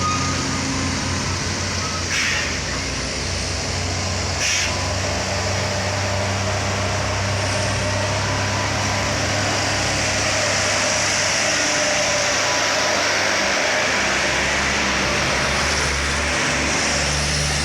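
Heavy truck engine running steadily, with road noise. Two short hisses come about two and four and a half seconds in.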